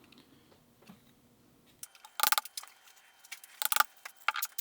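A few sharp light taps and metallic clinks of a chisel at a dovetail joint, the first about two seconds in with a brief ring, then a cluster near the end.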